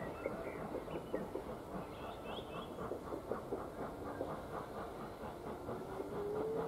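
A train running out of sight, with a quick, even beat of about four strokes a second that grows clearer through the second half, and a faint rising tone near the end.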